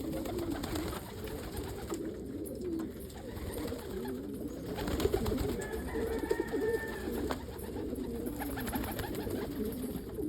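Several domestic pigeons cooing at once, overlapping low warbling coos, the sound of a flock of crested homers in their loft.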